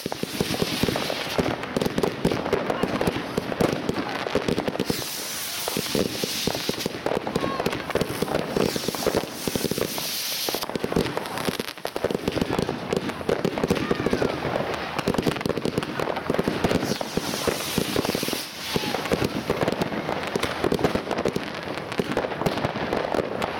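Class 2 consumer fireworks going off in a dense, unbroken string of bangs and crackles as shots launch and burst, with stretches of hissing about five and ten seconds in.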